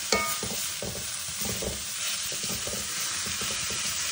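Cassava leaves sizzling in oil in a pan and being stirred: a steady frying hiss with repeated scraping strokes of the utensil. A sharp ringing clink against the pan comes just after the start.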